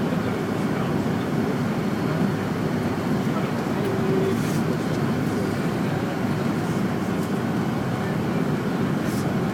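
Steady cabin noise inside a Fokker 100 airliner: an even rush of airflow and the hum of its rear-mounted Rolls-Royce Tay turbofans, holding level without change.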